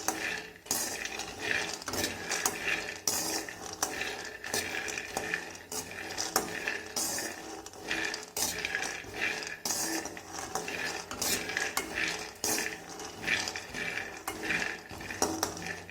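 Peanuts being handled in a metal pan or vessel: a steady run of irregular clinks, rattles and scrapes of a utensil against metal, with the nuts rattling.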